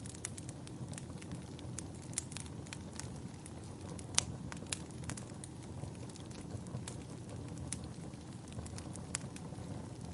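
Wood fire burning in a fireplace: a steady low rumble of flames with irregular sharp crackles and pops, the loudest pop about four seconds in.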